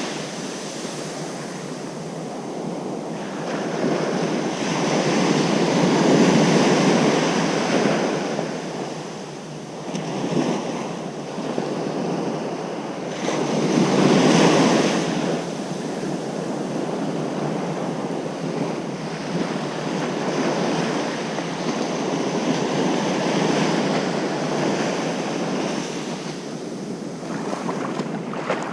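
Ocean surf breaking on a beach: a continuous rush of waves that swells louder about five seconds in and again around fourteen seconds, then settles back into a steady wash.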